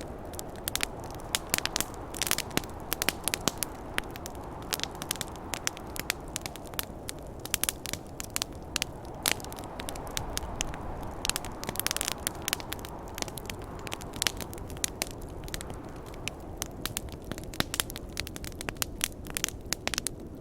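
Wood fire crackling, with dense irregular snaps and pops over a steady low rush of wind and burning.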